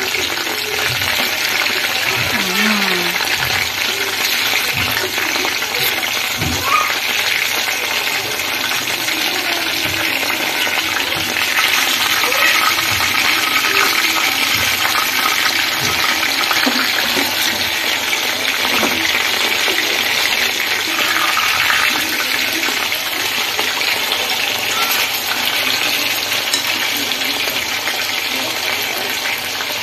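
Chicken pieces shallow-frying in hot mustard oil in a pan: a steady, loud sizzle of bubbling oil.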